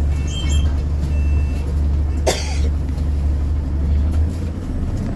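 Bus engine running with a steady low drone, heard from inside the passenger cabin. There is a single short, sharp burst of hiss about two seconds in.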